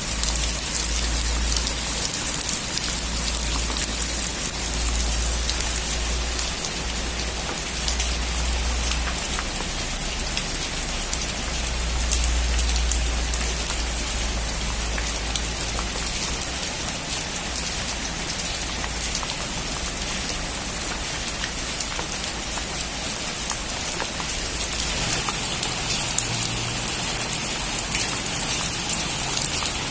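Heavy rain drumming steadily on a metal roof, dense with fine drop ticks over a low rumble, growing a little harder and brighter near the end.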